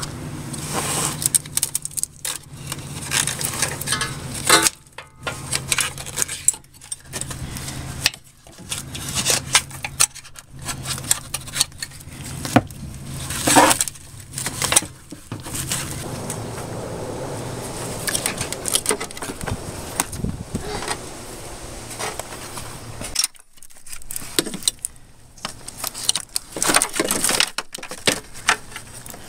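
Metal hand tools and parts clinking and rattling in irregular clusters of sharp clicks, as in wrench and hose-fitting work. A steady low hum sits underneath for about the first half, then fades.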